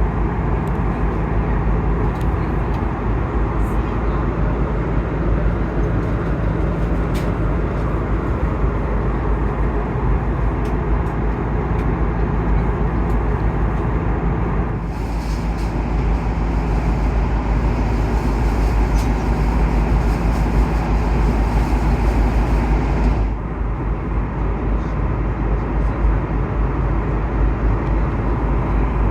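Steady roar of an Airbus A330-200 airliner cabin in flight: engine and airflow noise with a deep rumble. The noise changes abruptly about halfway through and again near the end, as between separately recorded shots.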